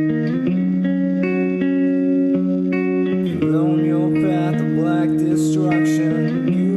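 Instrumental song intro: sustained guitar chords that change every second or two.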